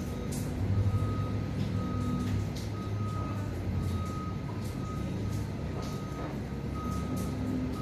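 A vehicle's reversing alarm beeping about once a second, one steady tone, over a low engine rumble.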